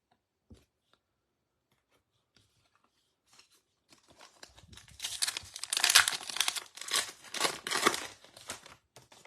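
Wrapper of a baseball trading card pack being torn open and crinkled by hand. The crackle starts a few seconds in, is loudest in the last few seconds, and then tapers off.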